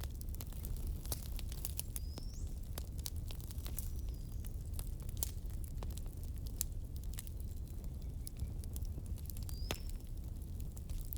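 Burning firewood crackling, with irregular sharp pops over a low steady rumble. Two brief high whistles come about two seconds in and again near the end.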